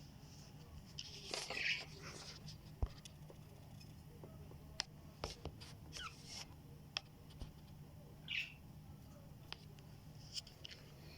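Budgies giving short, scattered squeaky chirps, with a few sharp clicks in between, over a faint low hum.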